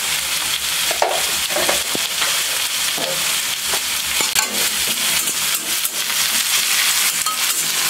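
Green chickpeas and onions sizzling in hot oil in a steel kadai while a spoon stirs them, with frequent short clicks and scrapes of the spoon against the pan over a steady sizzle.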